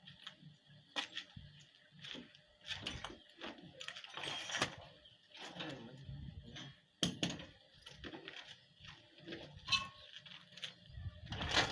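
Irregular clicks, knocks and rattles of objects being handled, over a faint steady high-pitched hum.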